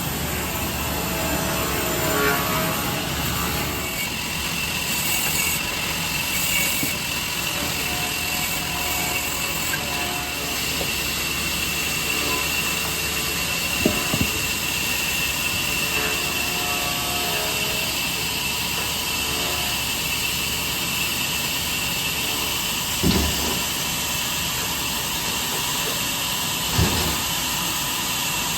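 Steady workshop machine noise with a constant high whine, broken by three short knocks, the last two well apart near the end.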